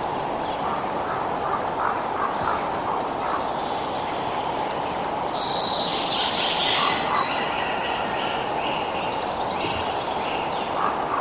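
Wild birds chirping and singing over a steady rushing noise, with a louder song of notes falling in pitch about five seconds in.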